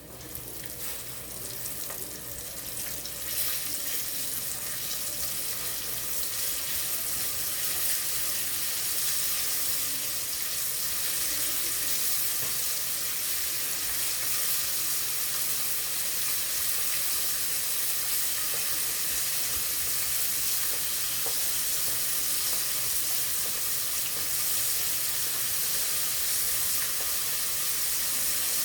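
Floured chicken pieces frying in hot oil: a steady sizzle that grows louder over the first several seconds, then holds even.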